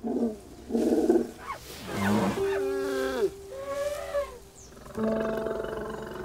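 Elephant calling several times in a row, loud pitched calls, some sliding down in pitch, over soft background music.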